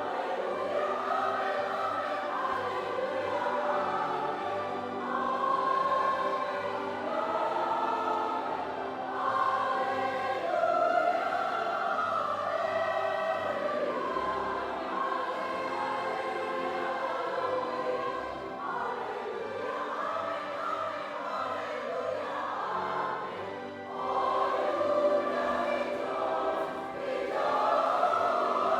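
A choir singing in parts during rehearsal, in sustained phrases with short breaks between them.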